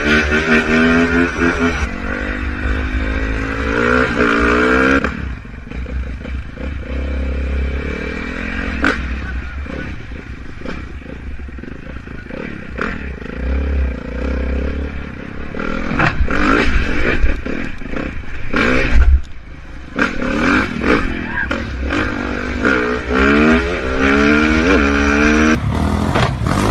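Dirt bike engine revving hard, its pitch climbing and dropping repeatedly as it runs up through the gears. In the middle the engine is quieter under a noisy rush with scattered knocks, and near the end the hard revving climbs through the gears again.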